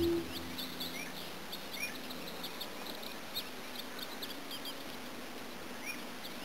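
Songbirds chirping outdoors in the early morning: many short, high calls repeated over a steady background hiss. The last note of a flute tune dies away in the first moment.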